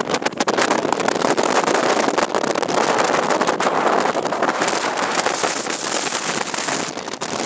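Blizzard wind blowing hard against the microphone: a loud, unbroken rushing noise that swells and eases with the gusts.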